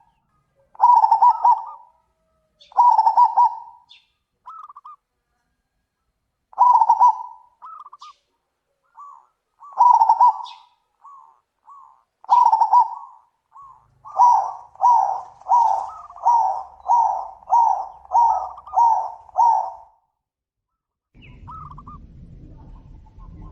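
Zebra doves (perkutut) cooing. Loud coo phrases come every two to three seconds, with fainter short coos between them like a second bird answering. In the middle a fast run of about ten coos follows, roughly two a second. Near the end the calls stop and a faint low rumble comes in.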